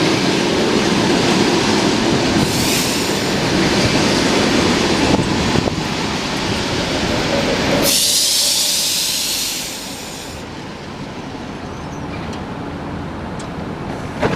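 ED4M electric multiple unit pulling into the station: a loud rumble of wheels on the rails, with clacking and brake squeal, for the first several seconds. About eight seconds in there is a loud high hiss lasting a couple of seconds, and then the sound settles lower as the train slows to a stop.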